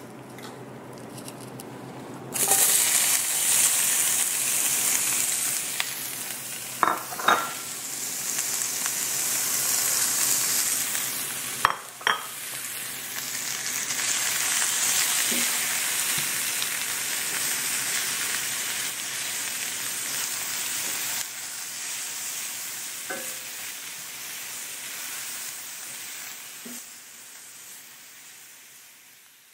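Sliced bell peppers and onion sizzling in hot oil in a cast iron skillet. The sizzle starts loud about two seconds in as the vegetables go into the pan and dies down gradually near the end. A few clicks of the tongs against the pan are heard as the vegetables are tossed.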